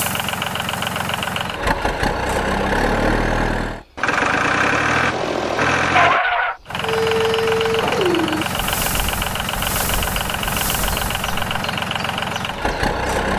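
Tractor engine running with a steady rapid rhythm, cut off briefly twice, about four and about six and a half seconds in. About seven seconds in, a short held tone slides down in pitch.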